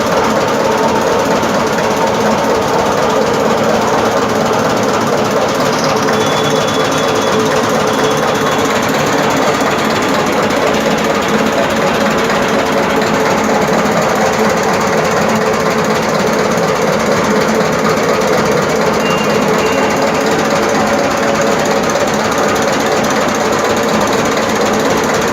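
10 hp Shaktiman single-cylinder diesel engine running steadily at constant speed, driving a 5 kVA Kirloskar generator.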